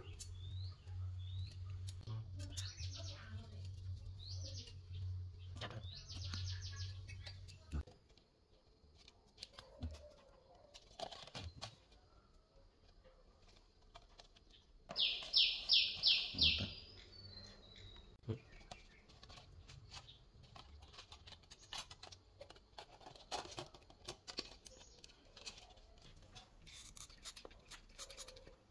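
Small birds chirping: repeated short rising chirps through the first several seconds, then a loud quick run of about five chirps about halfway through. Under them, a steady low hum stops about eight seconds in, and there are scattered clicks and rustles of small parts being handled.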